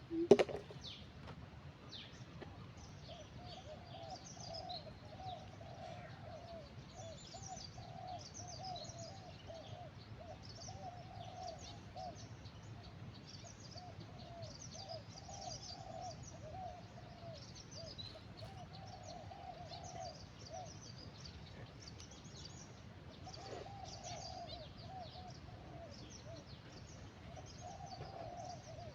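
Wild birds calling: one bird gives a long, steady run of short, low, repeated notes, while smaller birds chirp high over it. A single sharp knock at the very start is the loudest sound.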